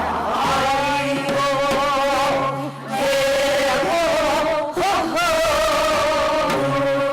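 Korean folk singing: long held notes with a wide, wavering vibrato over a low accompaniment, the phrase breaking off about three seconds in and picking up again.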